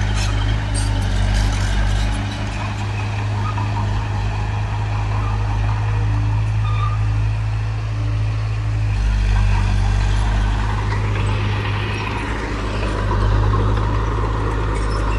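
Bulldozer's heavy diesel engine running steadily under working load. Its low note drops a couple of seconds in and comes back up about nine seconds in.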